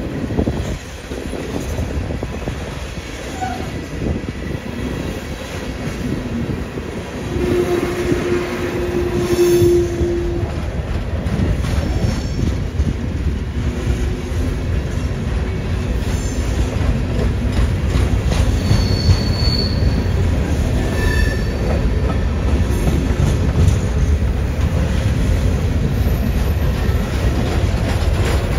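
Empty coal hopper cars of a freight train rolling past with a steady low rumble. The wheels squeal in one long held squeal about a third of the way in and in brief higher squeals about two-thirds through.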